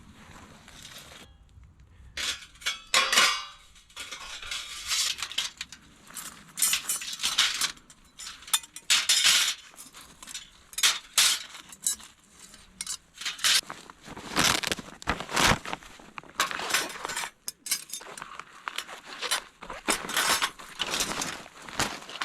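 Metal gear being handled, with repeated irregular clinks, clanks and rattles.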